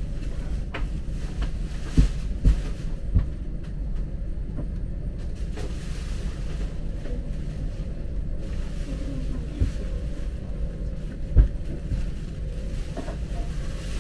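Steady low rumble of a high-speed train carriage running, with a few dull thumps about two to three seconds in and again near the eleven-second mark.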